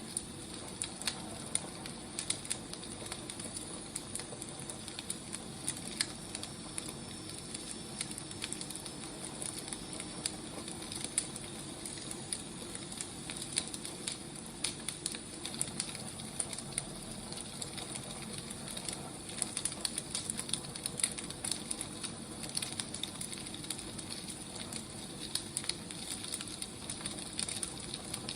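Wood fire burning, with a steady soft hiss and frequent irregular crackles and pops of the firewood.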